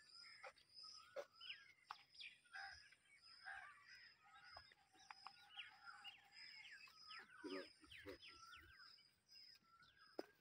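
Near silence with faint birdsong: many short chirping calls and a high note repeated about twice a second, with a few faint clicks.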